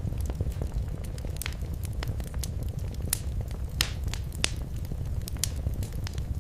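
Wood fire crackling in a fireplace: irregular sharp pops and snaps over a steady low rumble of the flames, with one louder pop near the middle.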